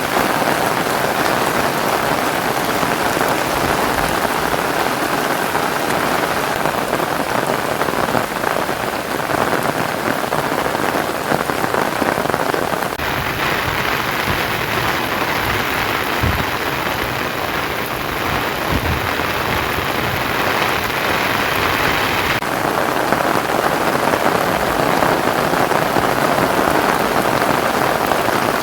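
Heavy rain pouring down steadily in a dense hiss, its tone shifting about thirteen seconds in and again about twenty-two seconds in.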